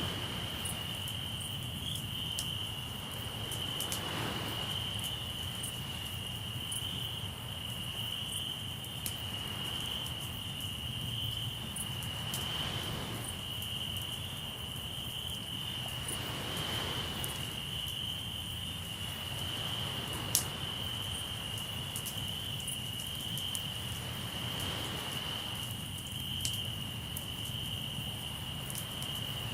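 Crickets chirring steadily over a campfire crackling with scattered sharp pops, one louder pop about two-thirds of the way through. Behind them is a low rumble, with soft swells of sea waves washing in every few seconds.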